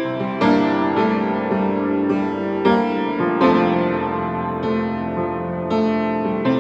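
Piano playing an instrumental passage between sung verses of a song. A new chord is struck roughly every second and left to ring.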